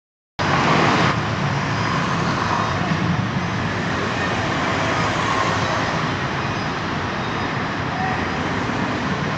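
Truck engine running steadily under a constant wash of road and traffic noise.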